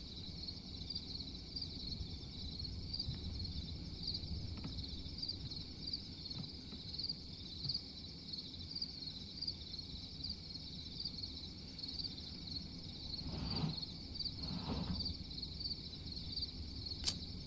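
Crickets chirping steadily in a quiet night ambience, with two brief soft rustles near the end.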